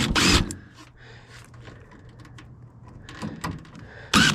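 Clattering knocks and scraping, in one burst at the start and another near the end, with a faint steady low hum between.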